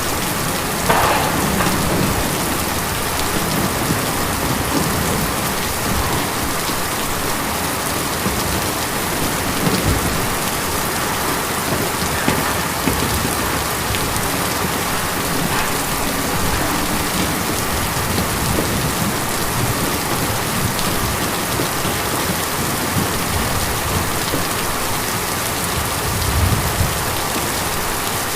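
Steady rain drumming on a tin roof, a dense patter of many individual drops. A few brief low swells come through about a second in, around ten seconds, and near the end.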